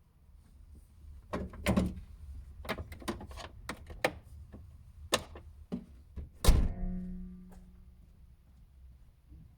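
Mazda MX-30 driveline rattle heard inside the car: a series of irregular knocks and clacks, the loudest near the end leaving a brief ringing tone, over a low steady rumble.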